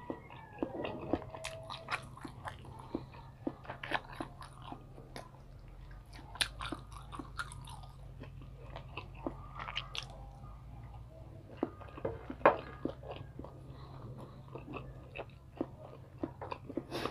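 Close-up chewing and biting of fried fish balls, with many short, irregular mouth clicks and smacks; one sharp click about twelve and a half seconds in is the loudest. A steady low hum runs underneath.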